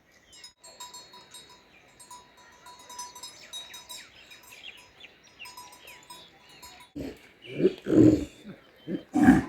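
Small birds chirping over a steady high insect-like tone, then, about seven seconds in, a run of loud animal calls, three or four in quick succession.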